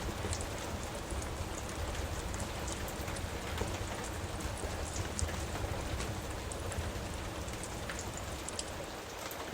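Steady rain falling, with scattered faint sharp crackles from a wood fire in a fireplace.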